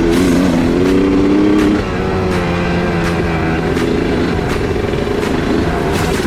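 2002 Honda CR250 two-stroke motocross bike's engine revving while being ridden, its pitch rising and falling, then easing off about two seconds in to a steadier, lower note. Short knocks are scattered through it.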